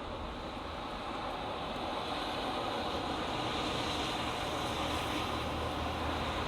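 Road traffic passing on a busy highway: the steady rush of tyres and engines, growing a little louder about two seconds in as a vehicle comes closer.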